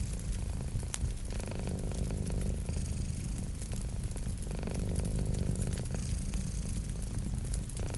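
Domestic cat purring steadily, the purr swelling and easing every few seconds, over the scattered crackle and pops of a wood fire.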